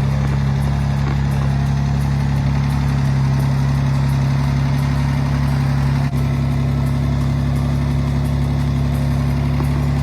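Austin-Healey 3000 Mk II BJ7's 2.9-litre inline six-cylinder engine idling steadily, with a brief drop about six seconds in.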